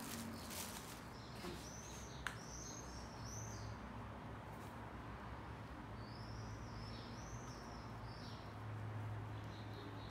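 Small songbirds chirping in the background in short runs of quick arched notes, twice, over a low steady hum. A few faint handling clicks come early, with one sharp click a little over two seconds in.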